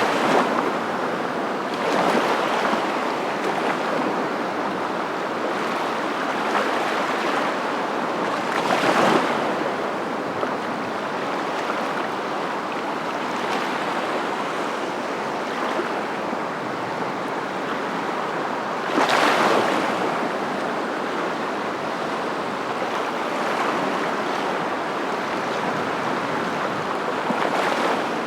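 Ocean surf: a steady rushing wash of waves that swells several times as waves break, most strongly about nine and nineteen seconds in.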